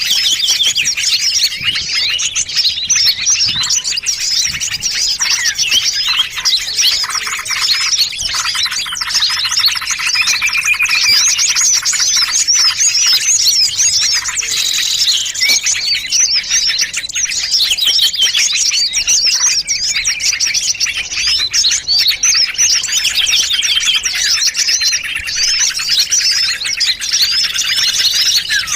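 Dense, unbroken chorus of many small songbirds chirping and trilling over one another: a layered bird-luring recording made to draw small birds in.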